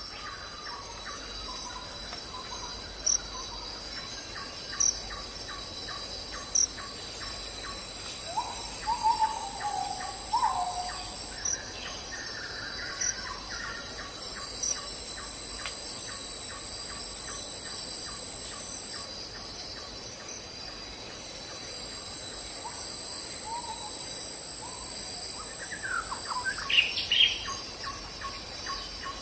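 Crickets and other insects chirping steadily in a continuous chorus. A few short chirps and calls stand out over it, the loudest near the end.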